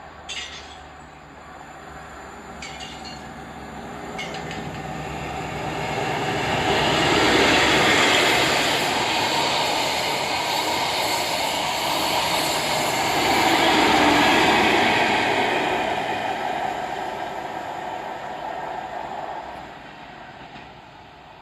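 A train passing on the line. Its wheel and rail noise builds over several seconds, is loudest twice in the middle, and dies away near the end.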